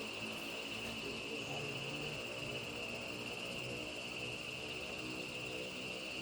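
Forest insects, crickets or similar, calling in a steady, unbroken high-pitched drone.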